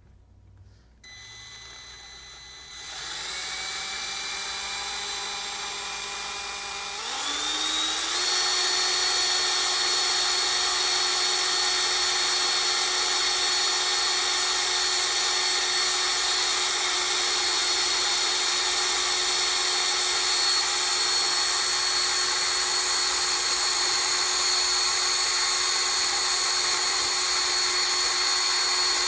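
Electric drill motor running with a steady high whine, stepping up in speed three times over the first eight seconds, then holding at full speed.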